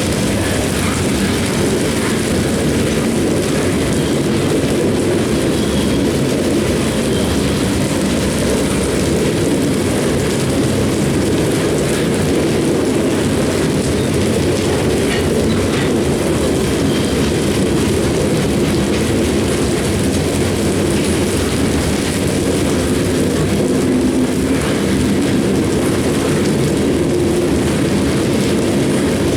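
Loaded CSX coal train's hopper cars rolling past, a steady rumble and rattle of wheels on rail, with a few faint brief high squeals.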